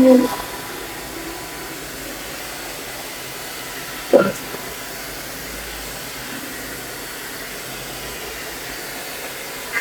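Hot-air hair dryer brush (volumizer) running steadily, blowing air. A brief vocal sound comes about four seconds in.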